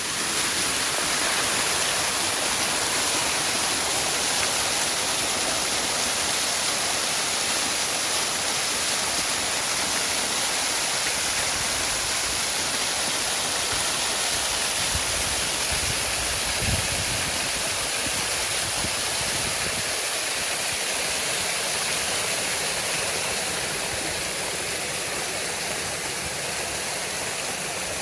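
Waterfall rushing steadily, an even roar of falling water. A brief low rumble comes about two-thirds of the way through.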